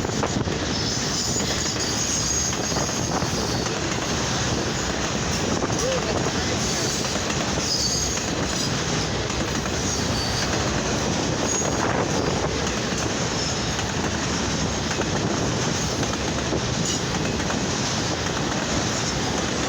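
Freight train cars rolling past, a steady rumble and clatter of wheels on rail, with brief high wheel squeals now and then.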